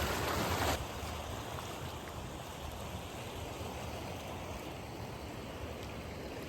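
Steady rush of flowing water. It drops suddenly to a lower level under a second in.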